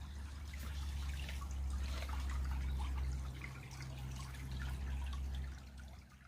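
Creek water trickling and dripping in many small ticks, over a steady low rumble.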